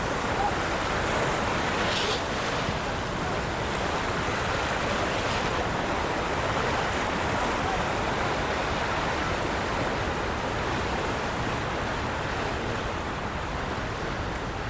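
Steady rush of water pouring through a dam's open spillway gates: an even, unbroken roar of falling water.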